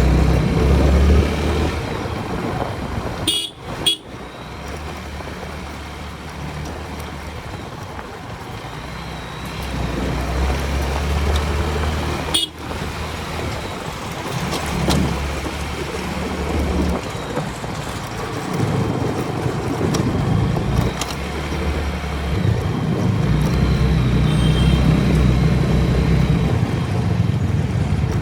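Apache motorcycle riding on the road: a steady engine and road rumble, with vehicle horns tooting now and then in the traffic.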